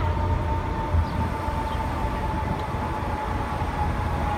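Steady low rumble and rushing noise of riding a bicycle, with wind on the microphone. A thin, steady whine slowly drops in pitch throughout.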